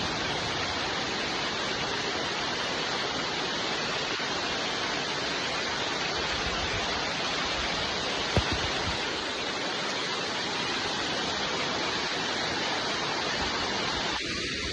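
Steady rain falling, an even hiss with no pattern, broken once about eight seconds in by a single short thump.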